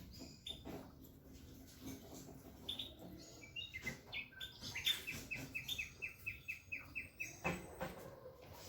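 Bulbul singing: varied whistled phrases, then a fast run of about a dozen short repeated notes in the middle, ending in a louder call.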